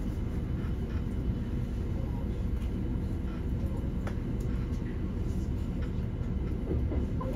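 Cabin noise of a Nishi Kyushu Shinkansen Kamome train running slowly: a steady low rumble with a few faint clicks.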